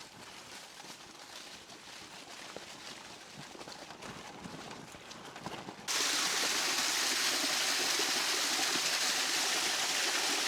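Faint scattered clicks over a soft hiss, then about six seconds in a loud, steady rush of a mountain stream starts abruptly.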